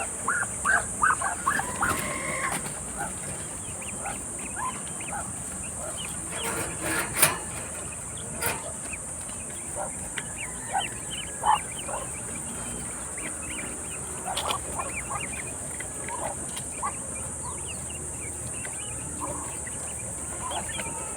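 Ducklings peeping: many short, high peeps, thickest in the first couple of seconds and scattered after that, over a steady high-pitched hiss.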